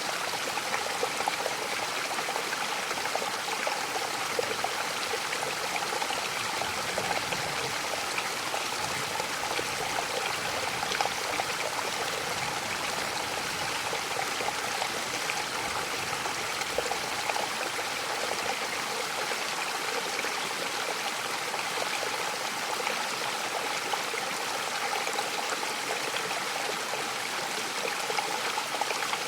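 Waterfall: water falling and running over rocks in a steady, unbroken rush.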